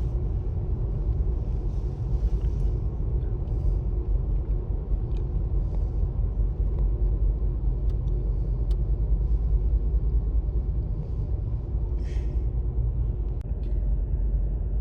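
Steady low vehicle rumble heard from inside a car's cabin, with a few faint clicks and knocks.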